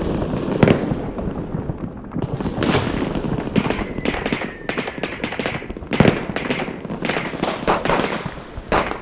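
Funke A-Böller firecrackers going off one after another: about a dozen sharp bangs at irregular intervals over a steady noisy background.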